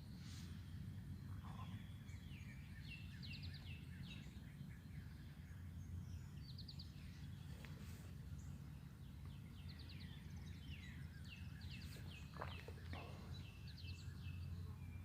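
Wild birds singing, with short chirps repeated in quick runs and quick downward-sweeping notes, over a steady low hum.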